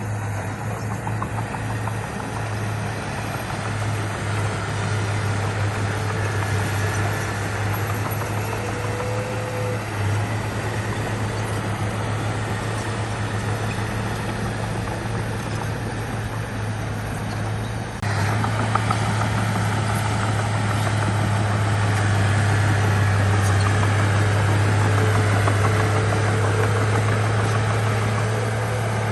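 Heavy earthmoving machinery's diesel engine running steadily with a deep hum. About two-thirds of the way in it jumps to a louder level and stays there.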